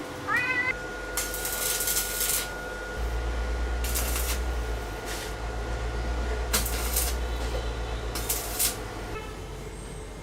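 A cat meows once, briefly, right at the start. A low steady hum then sets in about three seconds in, with a few short bursts of hiss over it.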